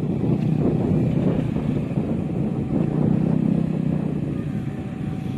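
A motor vehicle rumbling close by, growing louder about a second in and easing off toward the end.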